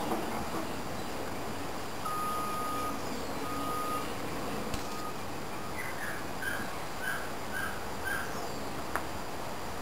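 Birds calling over a steady background hiss: a couple of long, level whistled notes, then a run of about six short notes, two a second. Two sharp clicks fall in between.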